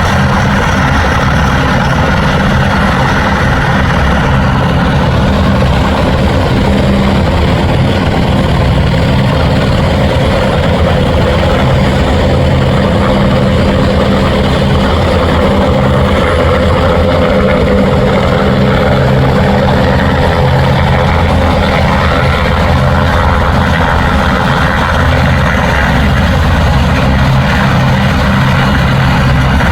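Helicopter running, a loud, steady drone of rotor and engine with a low, fast pulsing.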